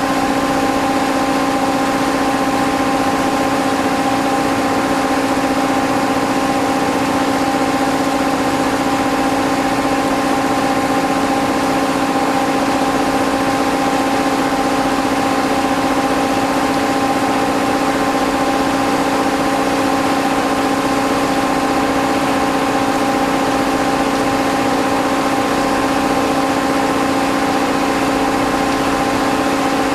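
Steady machine hum with several constant tones over a hiss, unchanging throughout.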